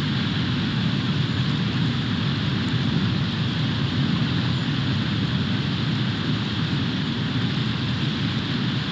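Snowstorm wind buffeting an outdoor nest-camera microphone: a steady rushing noise with a heavy low rumble and no break.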